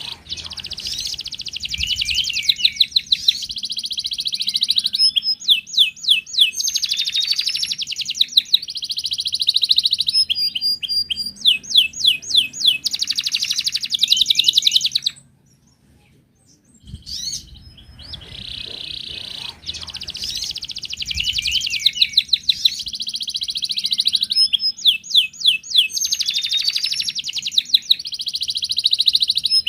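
Canary singing: long rolling trills and rapid runs of repeated notes, with sweeping whistles between phrases. About halfway through, the song breaks off for a couple of seconds, then starts again.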